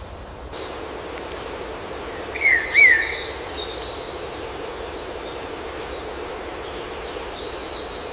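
Rainforest ambience of birds calling over a steady hiss: two loud, wavy whistled calls come close together about two and a half seconds in, with faint higher chirps scattered through the rest. The background steps up abruptly about half a second in.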